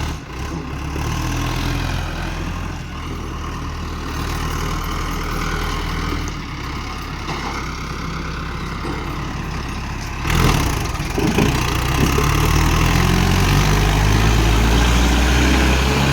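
Mahindra Arjun 555 tractor's diesel engine running steadily, then getting louder about ten seconds in, with its pitch slowly rising as it revs up.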